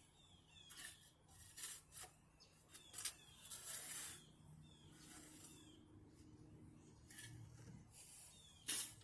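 Faint, irregular shovel scrapes as a spade is pushed into and drags through dirt, several short strokes about a second apart.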